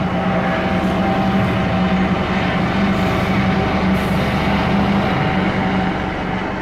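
Passenger train running past beneath and away: rumbling wheel and track noise with a steady low hum, beginning to fade at the very end.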